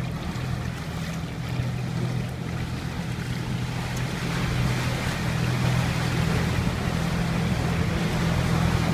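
Canal tour boat's motor running steadily with a low hum, under an even rushing noise of water and air moving past the boat.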